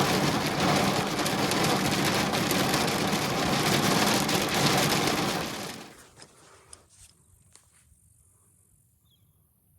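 Heavy rain hitting a truck as a steady hiss, which cuts out about six seconds in, leaving a few faint drips.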